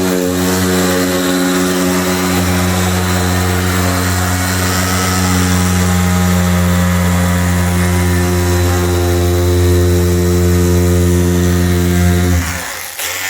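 An electric power tool's motor running steadily at a constant pitch. It cuts out briefly near the end and starts again.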